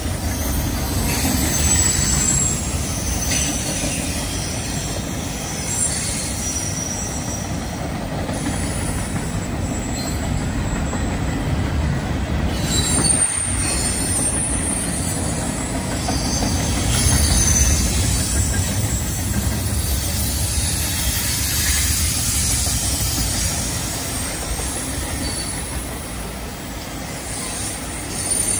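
Freight cars of a CN train rolling past on a curve: a steady low rumble of steel wheels on rail, with high-pitched wheel flange squeal coming and going.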